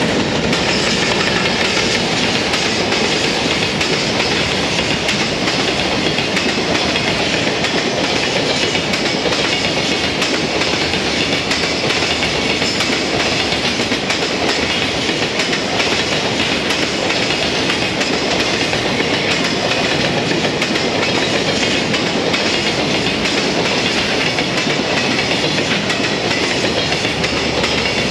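A JR Freight container train of Koki flatcars rolling past close by. Its steel wheels keep up a steady rumble, with a continuous run of clicks as the wheels cross the rail joints.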